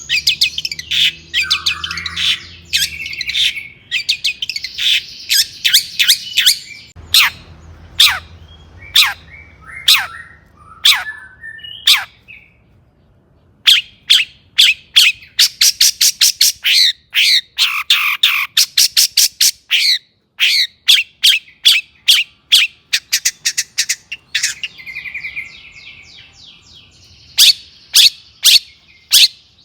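Long-tailed shrike (cendet) singing vigorously: a dense run of harsh, sharp notes and fast rattling trills, broken by short silences about twelve and twenty seconds in.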